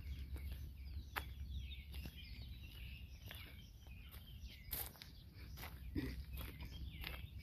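Killdeer calling over and over in short, high chirping notes: the alarm calls of a parent bird trying to draw intruders away from its nest.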